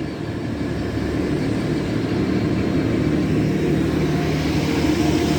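Underfloor diesel engines of a Grand Central Class 180 Adelante unit running with a steady drone that grows slowly louder, as the train starts away from the platform.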